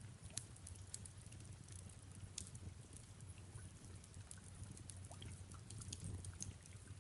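Faint fireplace-and-rain ambience: soft rain patter and scattered small crackles and pops of a wood fire over a low steady rumble.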